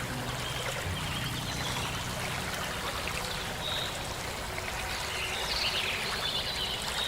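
Steady flowing water, like a small stream, with soft sustained music notes fading out in the first couple of seconds and short high chirps over the water.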